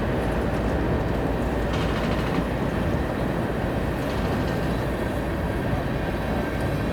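Freight cars of a CSX manifest train rolling slowly past, a steady rumble and grind of steel wheels on rail.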